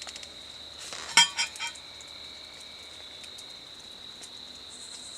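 Crickets chirping steadily, with three sharp clinks in quick succession about a second in.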